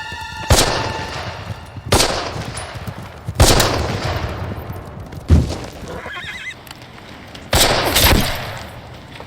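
Movie gunfire: single shots spaced a second or more apart, each with a long echoing tail, and a cluster of shots about eight seconds in. A horse whinnies briefly about six seconds in.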